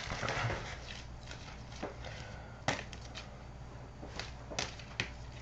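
Light handling noises: a few soft, scattered clicks and taps as trading cards and their packaging are handled, over a low steady hum.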